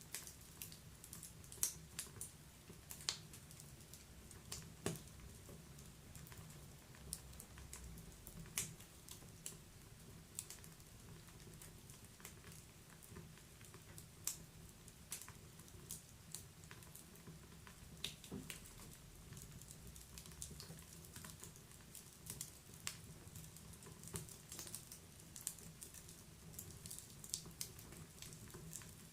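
Wood fire crackling: irregular sharp pops and snaps from burning logs, several a second at times, over a faint low rumble of the flames.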